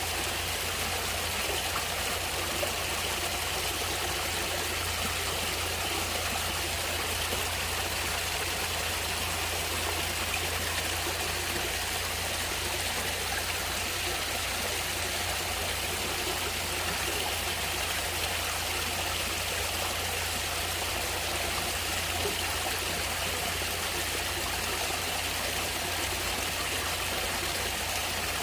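Natural running water, a stream flowing steadily with an even rushing hiss that does not change.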